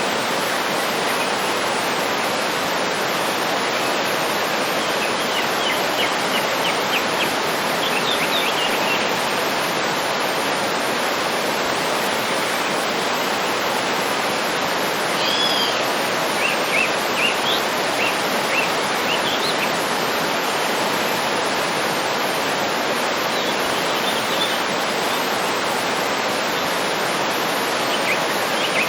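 Waterfall running with a steady roar, while birds chirp and whistle in short, high phrases over it several times.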